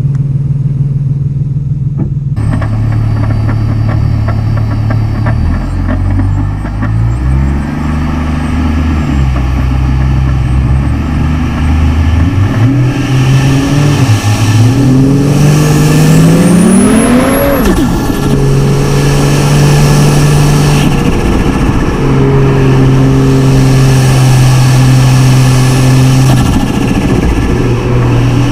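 Turbocharged car engine under way: it changes up through the gears, then revs hard about halfway through with a rising turbo whistle that cuts off abruptly as the throttle closes, then settles to a steady cruise.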